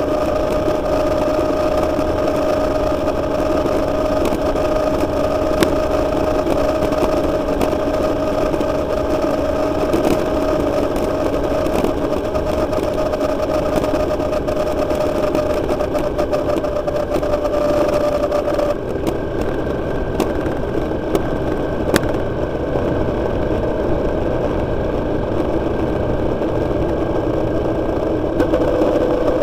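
Motorcycle engine running at a steady cruise through a road tunnel, with road and wind rush. Its steady note changes abruptly about two-thirds of the way through, and again just before the end.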